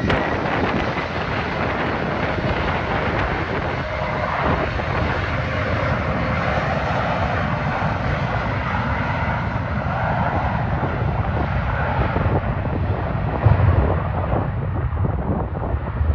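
Jet airliner engines passing, a steady rush with a whining tone in the middle that grows duller toward the end, with wind buffeting the microphone in low thumps.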